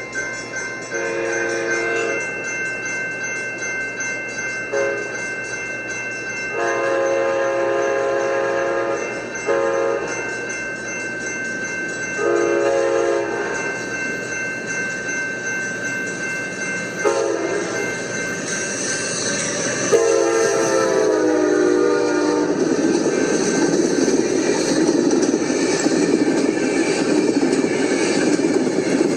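Amtrak locomotive's multi-chime horn sounding a series of blasts, some long and one very short, as the train approaches; the last blast, about 20 s in, drops in pitch as the train goes by, and the rumble of the passing train follows.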